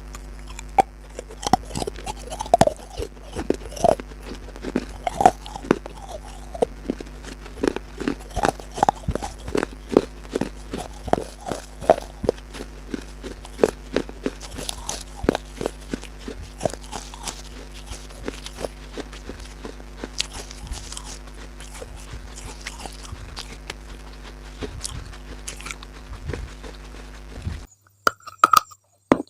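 Close-up crunching and chewing of crisp food: many irregular sharp crunches, with a steady low hum underneath. The crunching breaks off abruptly near the end.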